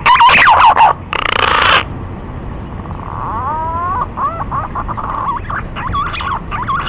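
Green pigeons (punai) calling: loud warbling, whistled notes for about the first second, then a short rushing noise, then quieter gliding whistles and warbles from about three seconds in. The calls are played as a lure to draw punai in for hunting.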